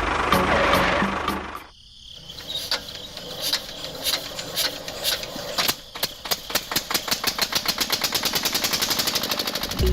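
A loud mechanical running noise that stops abruptly about two seconds in, followed by a run of sharp clicks that start slow and speed up steadily to a rapid ticking.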